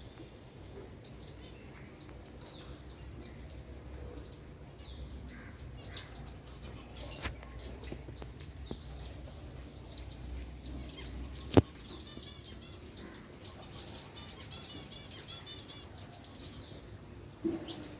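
Small birds chirping, short high calls scattered throughout with a quick run of repeated notes in the last third, over a low rumble of wind. One sharp click a little past halfway.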